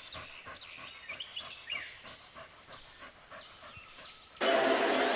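Faint outdoor ambience with a few short bird chirps, then music comes in suddenly and loudly about four seconds in.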